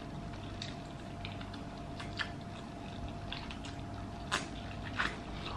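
Close-miked eating sounds: soft, irregular wet clicks and smacks of a mouth chewing food, with a few sharper clicks about two, four and a half and five seconds in.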